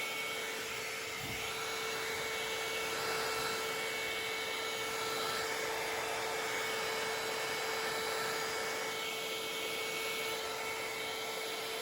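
Hair dryer fitted with a funnel nozzle running steadily, an even blowing rush with a constant hum, used to blow poured acrylic paint outward into a bloom.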